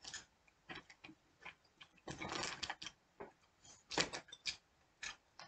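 Close-up eating sounds of a soft taco being chewed: irregular wet mouth clicks and smacks, with a longer noisy stretch of chewing about two seconds in.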